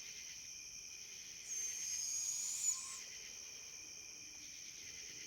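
Steady chorus of night insects. About a second and a half in comes a single raspy hissing screech from a barred owl, lasting about a second and a half.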